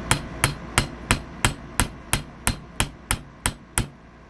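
Hammer tapping a replacement sight into the tight dovetail slot of a Glock-replica BB pistol's slide. About a dozen sharp, evenly spaced taps, roughly three a second, stopping shortly before the end.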